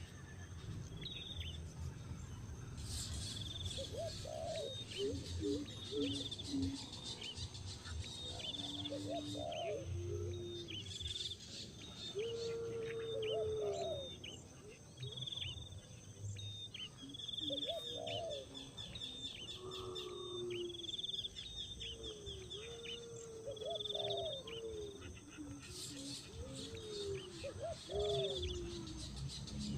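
Birds chirping: a run of short, high chirps repeated every second or so, with lower calls that glide up and down mixed in.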